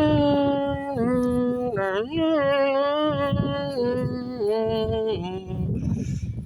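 A single voice singing or crooning a slow tune of long held notes that step up and down in pitch every second or so, without a break.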